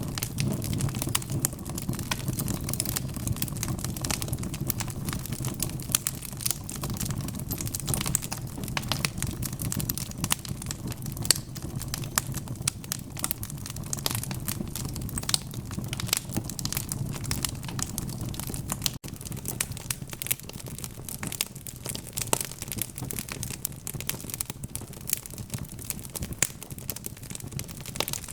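Wood fire crackling: a dense, irregular run of sharp pops and snaps over the steady low rumble of the flames, with a split-second gap about two-thirds of the way through.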